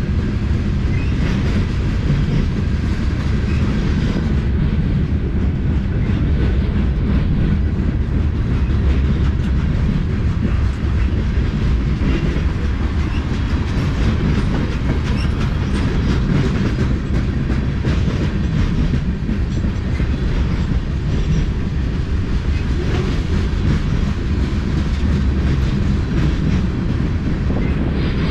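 Freight cars of a mixed freight train rolling past on the rails: a steady low rumble with the wheels clicking over rail joints.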